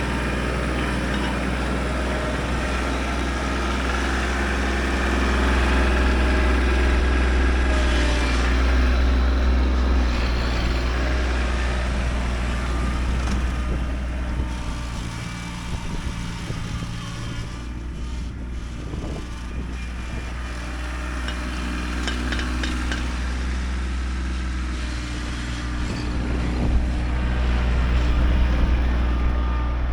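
Kubota tractor engine running under load while pushing dirt, its note swelling and easing as the load changes.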